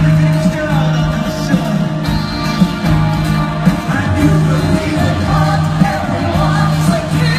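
Live rock band playing, with singing over a repeating bass note and guitar.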